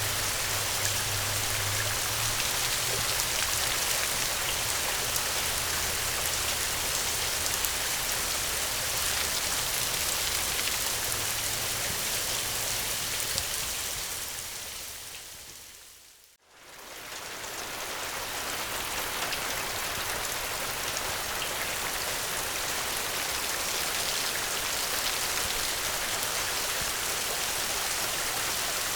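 Steady heavy rain, a dense hiss of drops, with a low rumble under it in the first couple of seconds. About halfway through it fades down to near silence and straight back up, as at the loop point of a recording.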